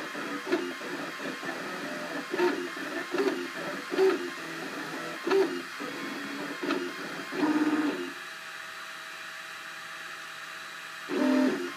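Cubify 3D printer's stepper motors singing in short, pitched moves of differing notes as the print head traces out a layer. About eight seconds in the moves stop for roughly three seconds, leaving only a steady faint hum, and then one more loud move starts near the end.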